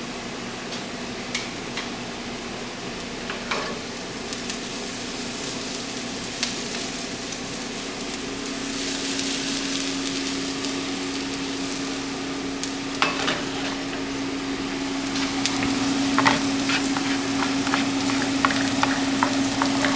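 Beaten eggs for an omelet frying in butter in a pan, a steady sizzle. A utensil taps and scrapes the pan, more often in the second half.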